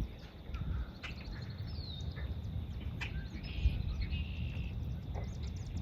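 Several wild birds chirping and calling, with a falling whistle about two seconds in and buzzy notes a little later, over a low rumble.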